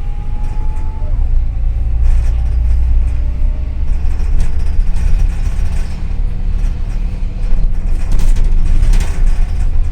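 Double-decker city bus in motion, heard from inside: a steady low rumble from the engine and the road, with rattles and knocks that grow louder about eight seconds in.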